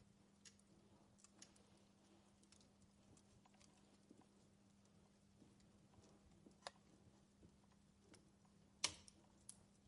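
Wood fire in a fireplace crackling quietly: scattered pops and snaps, with a sharper snap near the end, over a faint steady hum.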